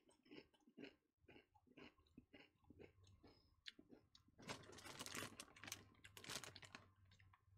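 Faint crunching as a person chews small, crisp Sun Chips, in scattered short crackles. A denser stretch of crackling runs from about four and a half to seven seconds in.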